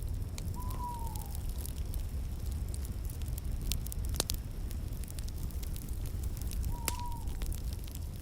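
Fireplace fire burning with a steady low rumble and scattered sharp crackles and pops. Twice, about six seconds apart, a short whistled note sounds over it and falls away in pitch.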